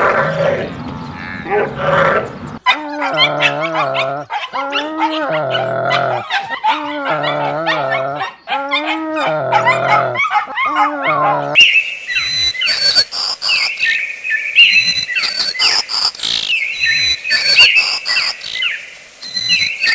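Animal calls: a series of pitched, wavering calls, each about a second long, then from about halfway through a run of high-pitched chirps.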